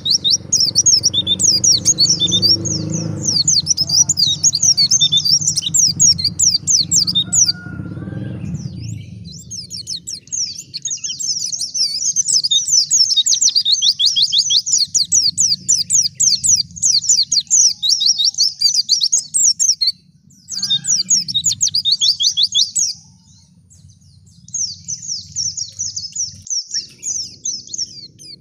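White-eye (pleci) singing a fast, high, twittering song in long unbroken runs, with two short pauses in the last third. A low background rumble sits under the song for roughly the first third.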